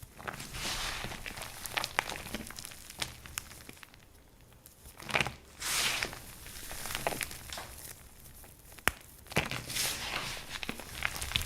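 Dried soap crunching and crackling as it is crushed or cut, in irregular bursts of crisp cracks, with a quieter lull about four seconds in.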